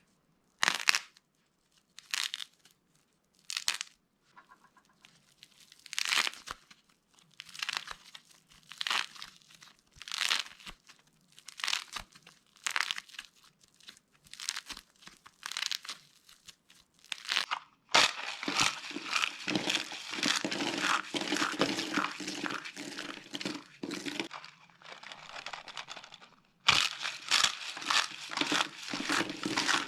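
Dry soap being cracked and crushed by hand. It starts as single crisp crunches, one every second or so, and about halfway turns into a dense, continuous crumbling crunch, with a short pause near the end.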